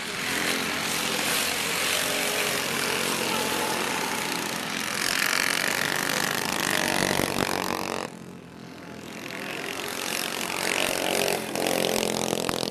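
Minibikes' small pull-start single-cylinder engines running hard as the bikes race past. The engine noise drops about eight seconds in, then builds again as more bikes come by.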